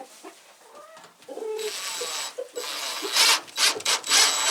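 Rasping, scraping work on wood in several short bursts starting a couple of seconds in, with a faint high whine running through the louder bursts and a few sharp strokes near the end.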